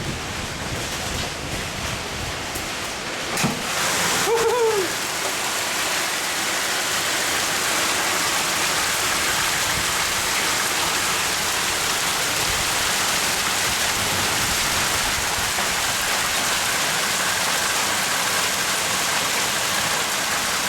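Hail and heavy rain pelting down in a dense, steady hiss that grows slightly louder after about five seconds. A sharp knock comes about three and a half seconds in, followed by a short falling tone.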